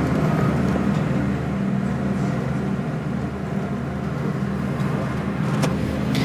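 Steady low hum and hiss of an Airbus A330's cabin air-conditioning and ventilation, running while the aircraft is parked at the gate during boarding.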